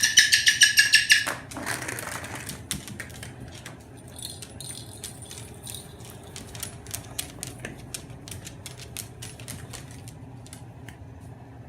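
Moluccan cockatoo giving a loud, rapidly pulsed call for about the first second, followed by scattered light clicks and taps.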